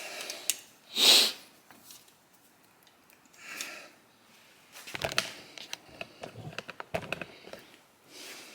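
A loud short sniff about a second in, then a run of light clicks and rattles from about five seconds in as small metal carburettor parts are handled.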